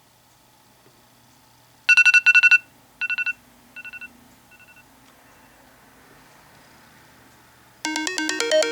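iOS 7 preset ringtones from an iPod touch speaker. About two seconds in, a short, rapid two-tone trilling ring sounds twice, then repeats several times, each repeat fainter, like echoes. Near the end a new, louder melodic ringtone begins.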